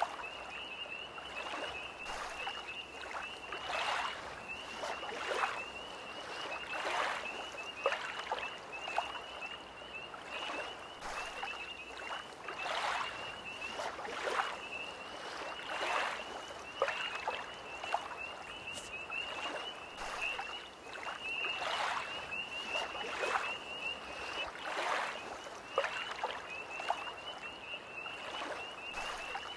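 Small lake waves lapping and splashing at the shore about once a second, over a steady, fast high-pitched trill of a tree frog chorus.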